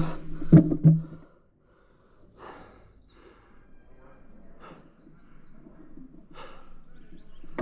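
A loud humming sound with a couple of thumps cuts off abruptly about a second in. A bird then chirps a few times near the middle, over soft, scattered puffs of noise.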